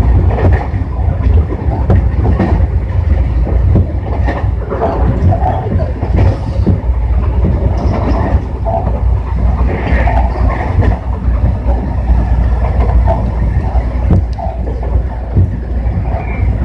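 Tobu 60000 series electric train running, heard from inside the car: a loud, steady rumble of wheels on rail with irregular clacks over the track.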